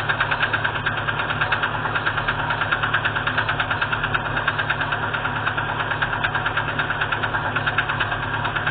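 Petrol four-cylinder UMZ engine of a GAZelle van idling with a sharp, even knock, about six or seven a second. The knock comes from a piston whose skirt has broken off.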